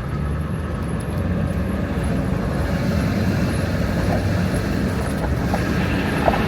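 2001 Ford F-350's 7.3 L Power Stroke turbo-diesel V8 pulling away and driving, its steady drone growing a little louder as it goes.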